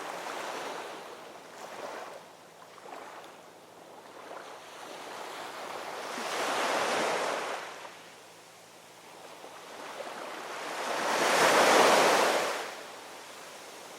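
Ocean waves breaking and washing on a shore, two main waves swelling and fading, the second about twelve seconds in the louder, over a low continuous wash of surf.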